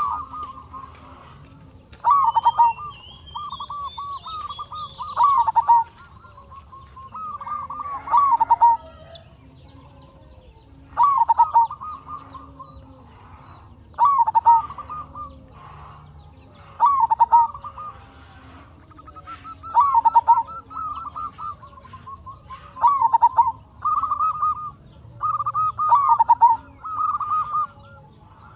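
Zebra dove (perkutut) cooing: short, rolling phrases repeated every two to three seconds, used as a lure call that sets other perkutut answering.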